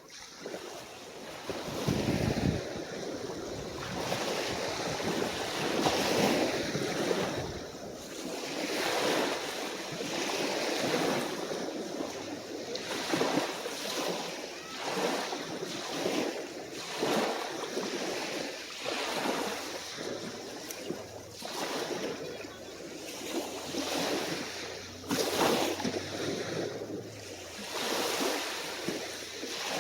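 Small, calm waves washing onto a beach, swelling and falling back every second or two. A short gust of wind buffets the microphone about two seconds in, and a faint low drone sits underneath through the middle.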